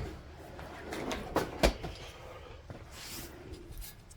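Handling sounds of a freshly honed air-cooled VW cylinder being picked up and moved: a few light knocks, two close together about a second and a half in, and a short scrape or hiss near three seconds.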